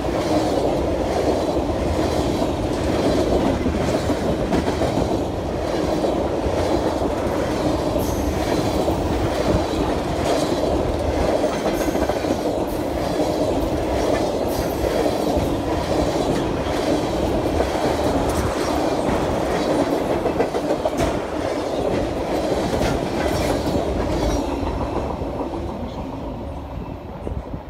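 A train rolling past on the rails, its cars running by steadily with repeated wheel clicks. It grows quieter near the end.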